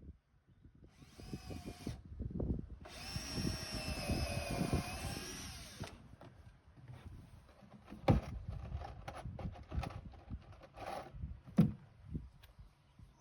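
A handheld power tool runs in two bursts, a short one and then one of about three seconds, followed by scattered knocks and clatter.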